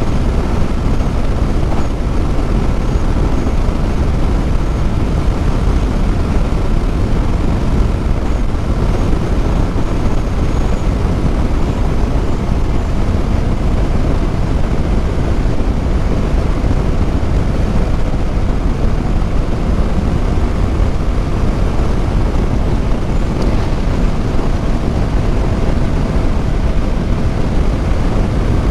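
Motorcycle riding at a steady speed: wind rushing over the microphone with the engine running evenly underneath, a faint steady whine above.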